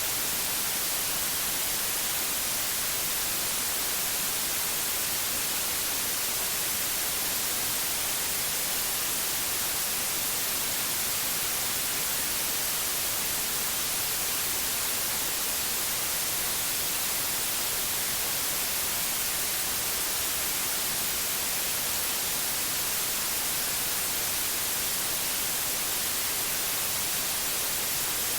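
Synthetic white noise: a steady, even hiss, brightest in the highs, with no change throughout.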